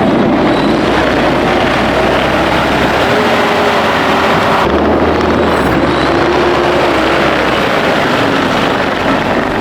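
Diesel engine of a piece of snow-removal equipment running under load, its pitch drifting up and down a little; the sound shifts abruptly about halfway through.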